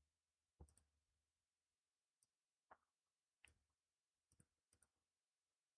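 Near silence broken by about seven faint, sharp clicks at irregular intervals: a computer mouse being clicked while placing elements in the software.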